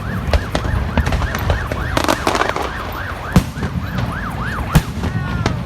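A siren-like tone yelping up and down about three or four times a second, over the crackle and several sharp bangs of fireworks going off.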